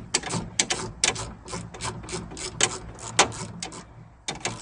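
Hand socket ratchet clicking in short back-and-forth strokes as a door hinge bolt is loosened.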